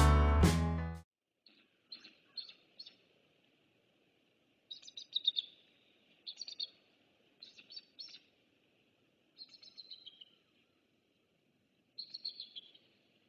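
Music that cuts off about a second in, then short runs of high chirping bird calls every second or two over a faint steady hiss.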